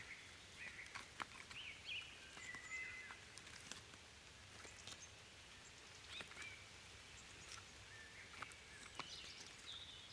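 Faint birdsong: scattered short whistled chirps, some sliding up or down in pitch, over quiet woodland background noise, with a few faint clicks.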